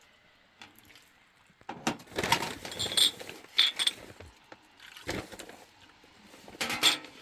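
Clinking and clattering of hard objects being handled, in several bursts with a bright ringing edge.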